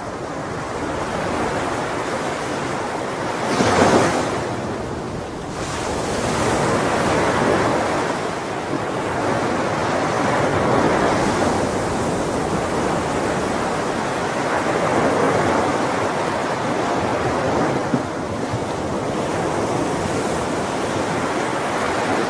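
Ocean surf: waves washing and breaking on the shore in slow swells, with one louder crash about four seconds in.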